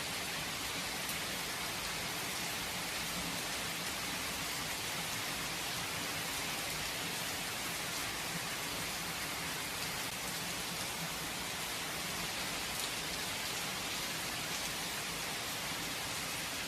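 Steady rain falling, with no thunder: an even hiss of drops landing on surfaces.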